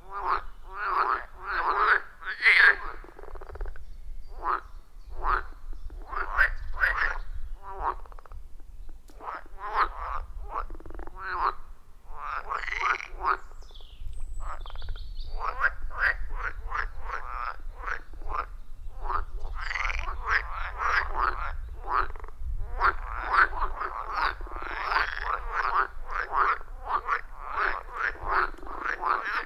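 A chorus of frogs calling at a pond: many overlapping croaks, each repeating several times a second in runs, thinning briefly a few seconds in and growing denser in the second half.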